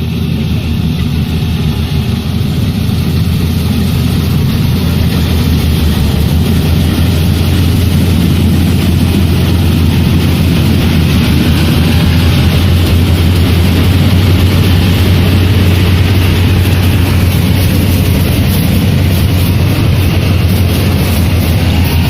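Rice harvesting machine's engine running steadily under load, growing a little louder over the first dozen seconds or so.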